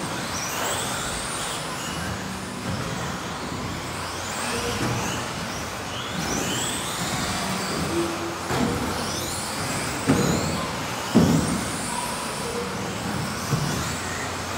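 Several electric radio-controlled cars running on a track, their motors giving repeated rising high-pitched whines as they accelerate. Two sharp knocks stand out about ten and eleven seconds in.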